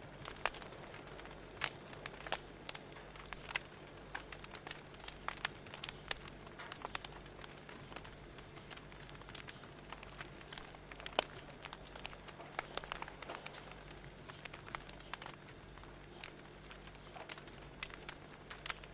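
Wood fire crackling: irregular sharp pops and snaps scattered throughout, over a faint steady low hum.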